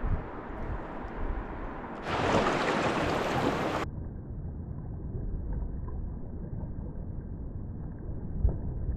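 Low rumble of wind buffeting the microphone, outdoors along a river. About two seconds in, a louder rushing hiss lasts just under two seconds and cuts off sharply; after it the sound is duller and muffled.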